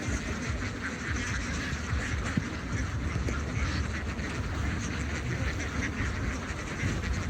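A large flock of ducks quacking all at once in a dense, continuous chorus, with a steady low rumble underneath.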